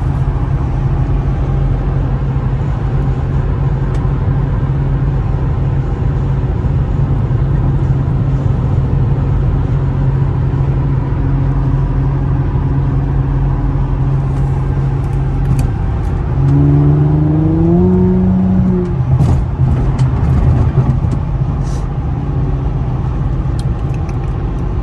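2007 Infiniti G35 Coupe's V6 engine with a Motordyne exhaust droning steadily at freeway cruise, with road noise. About two-thirds of the way through, the engine note rises for a couple of seconds as the car speeds up, then drops back to a steady drone.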